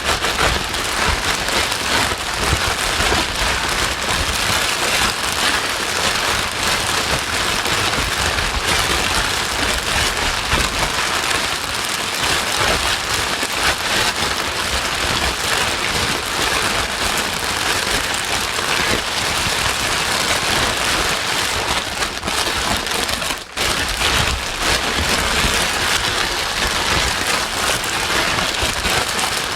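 Steady white-noise hiss, an even rushing sound much like heavy rain. It dips for a moment about three-quarters of the way through.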